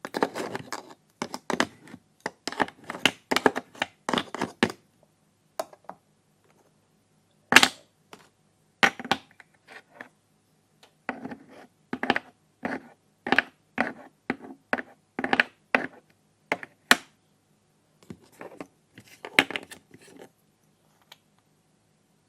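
Plastic pretend-play kitchen toys being handled: an irregular series of short, sharp clicks and taps, thickest in the first few seconds, with pauses between.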